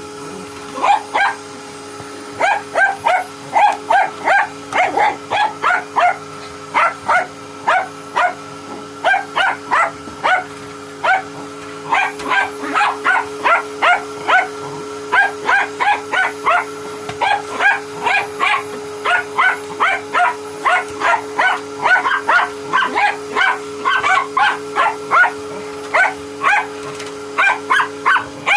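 Dog barking over and over at a vacuum cleaner's brush, about two to three barks a second with only brief pauses, over the steady hum of the running vacuum cleaner.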